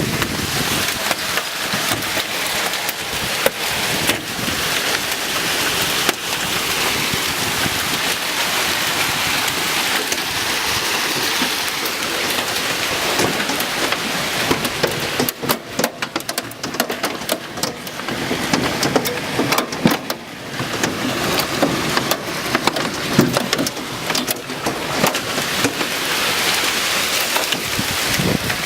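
Hailstorm: a dense, steady hiss of hail and rain pelting hard surfaces, with many sharp clicks and knocks of individual hailstones striking. The strikes come thickest around the middle.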